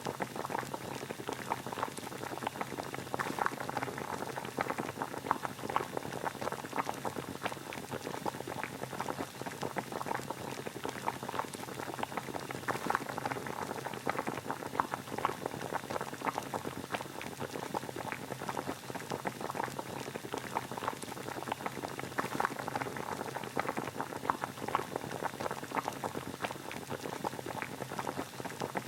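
Water at a steady boil: a dense, even bubbling and popping that goes on without a break.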